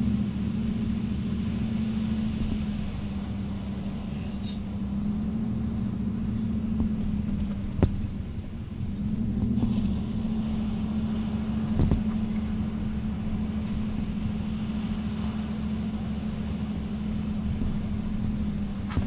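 A vehicle's engine and drivetrain running steadily, heard from inside the cabin while driving over beach sand: a low drone that rises and falls slightly in pitch, with two short knocks partway through.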